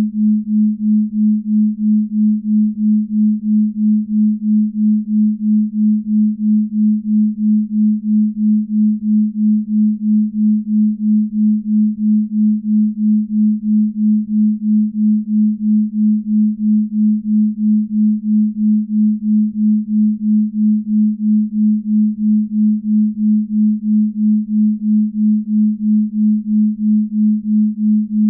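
Binaural beat sine tones: a steady low pure tone just above 200 Hz that swells and fades evenly a few times a second, the beating of two slightly detuned tones.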